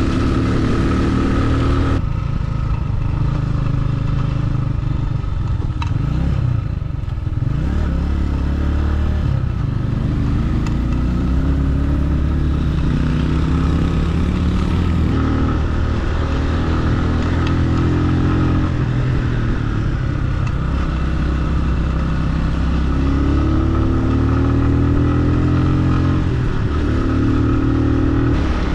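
Motorcycle engine running under way, its pitch rising and falling with the throttle. About six seconds in it drops briefly and then climbs again.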